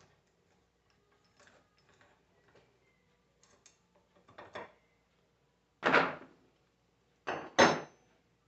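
Metal tools and alternator parts knocking and clanking during disassembly: a few light clicks, then about four sharper knocks in the second half, the last ringing briefly like struck metal.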